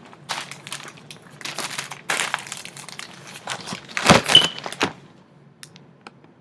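Gift packaging and paper rustling and being handled in short bursts, with a louder knock a little after four seconds, then dying down.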